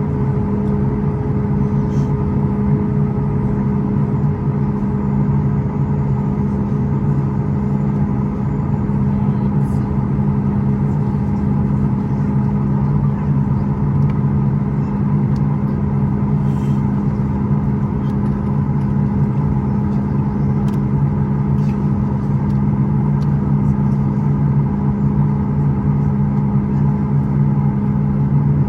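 Steady cabin drone inside a Boeing 737 MAX 8 airliner: its CFM LEAP-1B engines and the airflow make a constant hum with several fixed tones and no change in pitch.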